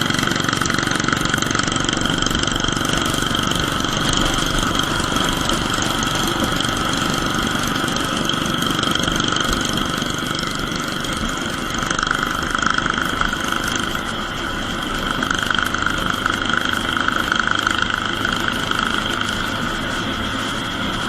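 Royal Enfield Bullet 350 single-cylinder engine running at cruising speed through a short-bottle aftermarket silencer, with steady wind and road noise from the moving motorcycle.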